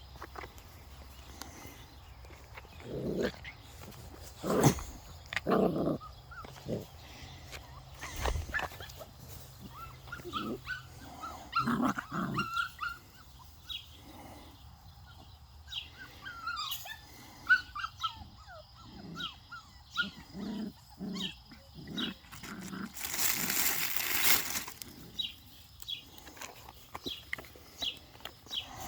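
Young puppies whining and yipping in many short, high squeaks, with scattered soft knocks and a loud rustling burst about 23 seconds in.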